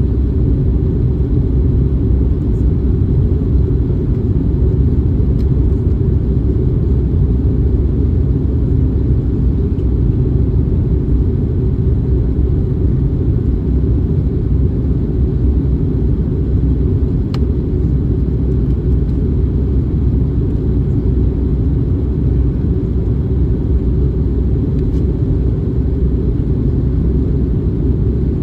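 Cabin noise of an Airbus A321neo in flight: a steady low rumble of airflow and engines that holds even throughout.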